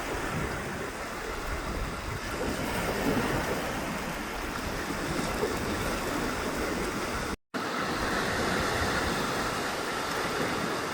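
Ocean surf washing on the beach: a steady rushing noise, broken by a split-second dropout about two-thirds of the way through.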